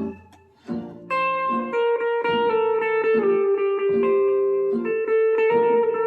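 Guitar music: plucked guitar notes ringing out over a backing track. The playing drops out briefly just after the start, then comes back in about a second later.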